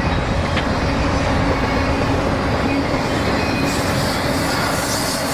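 Freight train passing close by: a loud, steady rumble of wheels on rail, growing hissier in the highs a few seconds in.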